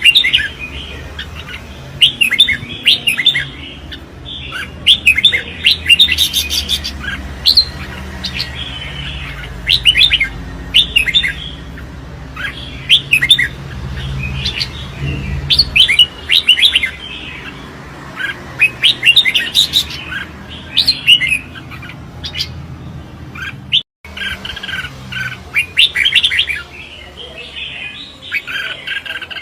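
Red-whiskered bulbul singing loudly in short, bright, repeated phrases, the competitive song of a male bulbul.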